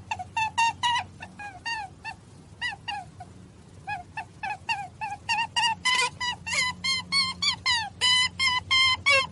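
Flock of geese honking: a rapid, overlapping run of short, nasal calls, each falling in pitch. The calls thin out a few seconds in, then grow denser and louder towards the end.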